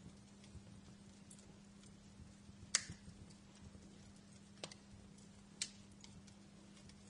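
Wood fire crackling softly: sparse sharp pops over a faint hiss, the loudest about two and a half seconds in and two more about a second apart near the end, with a steady low hum underneath.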